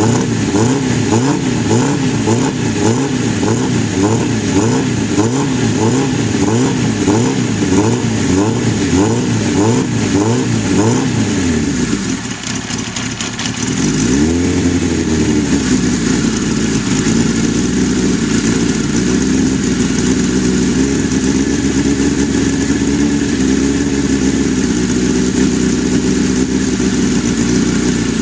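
1983 Suzuki GS1100E's air-cooled inline-four running on a cold start, its revs rising and falling in an even rhythm a bit more than once a second. Around twelve seconds in the revs sag and the sound dips. A quick rev follows, and the engine settles into a steady idle.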